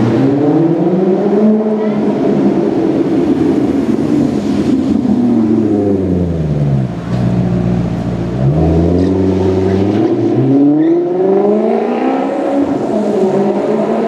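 Sports car engine revving: the pitch climbs over the first couple of seconds, sinks to a low drone about halfway, then climbs again as the car accelerates away.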